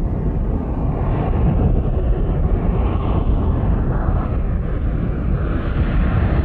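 Car engine and exhaust giving a loud, steady rumble while driving.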